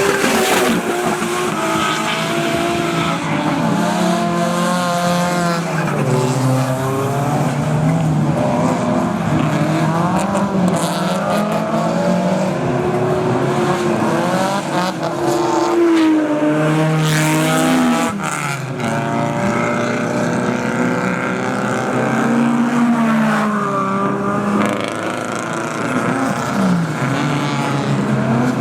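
Drift cars' engines revving hard and dropping back again and again, with more than one engine heard at once at times, and tyres squealing as the cars slide.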